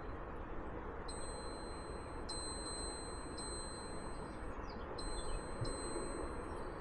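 A high, clear chime-like tone struck several times, each strike ringing on for a second or more, over a steady rushing background.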